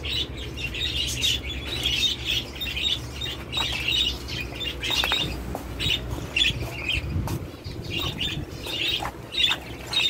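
A flock of small caged birds chirping and twittering in quick, overlapping bursts, with a few rustles and knocks.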